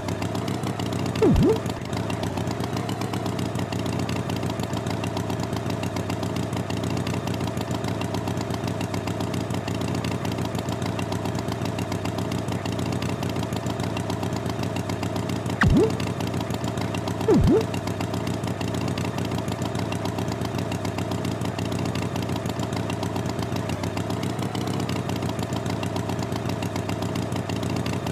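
Cartoon tractor engine sound effect running steadily, with three short pitch glides falling quickly from mid to low: one about a second in and two in the middle.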